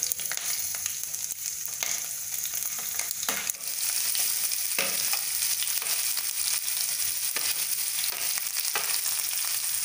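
Hot oil sizzling in a non-stick kadai with mustard, cumin and fennel seeds and green chillies frying. About three and a half seconds in, chopped onions are tipped in and the sizzle grows louder and hissier, with a few sharp clicks.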